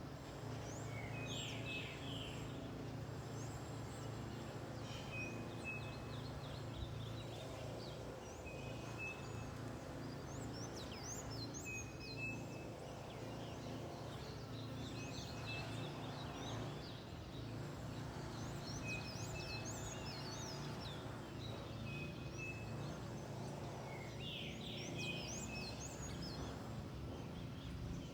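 Several wild birds chirping and calling, with one short flat whistled note repeating every few seconds and a denser flurry of rapid calls about a second in and again near the end. A steady low rumble runs beneath the birdsong.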